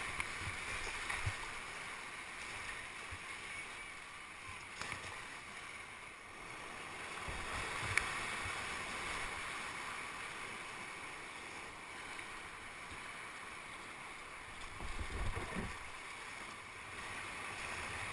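Rushing whitewater of the Ocoee River, a steady hiss of moving water, with a few low thumps and a sharp click about halfway through.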